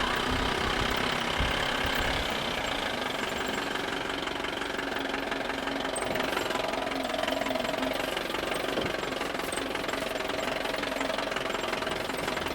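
RC model excavator running steadily with an engine-like idle and a regular knocking.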